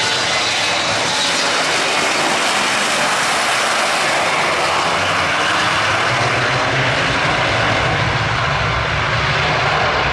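Boeing 727's three Pratt & Whitney JT8D turbofan engines, a loud and steady jet noise that grows heavier in the low end near the end.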